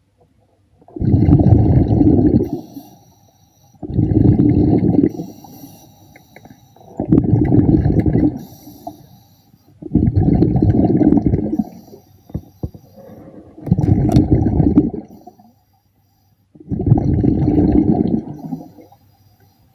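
A diver's exhaled breath bubbling out underwater, in six bursts about three seconds apart, each lasting a second or two, with quiet between.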